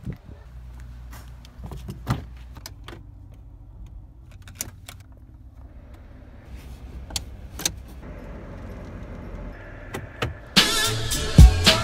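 Car engine idling with a low steady hum inside the cabin, with scattered clicks and knocks from the door and controls; from about six seconds in the ventilation fan blows louder. Near the end, loud hip-hop background music with a steady beat starts suddenly.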